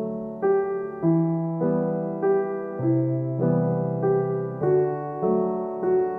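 Background piano music: a gentle repeating pattern of notes, about two notes a second over a slow bass line.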